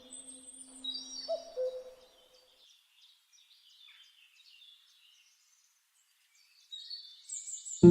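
Small birds chirping and twittering in short, high calls as the last notes of soft music die away. The birds go almost quiet in the middle, start up again near the end, and a harp comes in at the very end.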